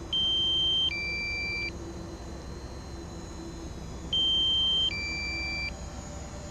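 Drone remote controller's low-battery alarm: a two-part electronic beep, one steady tone then a lower one, sounding twice about four seconds apart, warning that the aircraft battery is down to about 15%.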